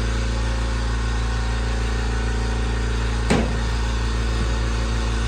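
Air compressor running loudly and steadily, a low motor hum, with a single knock about three seconds in.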